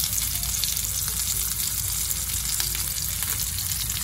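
Bacon-wrapped chicken breast sizzling steadily in a nonstick frying pan over low heat, with fine crackling from the bacon fat as it renders out.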